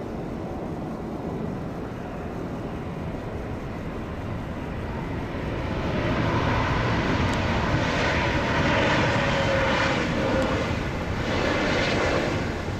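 Jet airliner passing on landing: the engine noise swells from about five seconds in, with a faint whine that drops slightly in pitch as it goes by, then falls away near the end.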